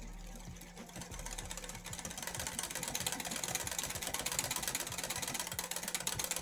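A small motor running steadily with a dense buzzing noise that grows louder about a second in.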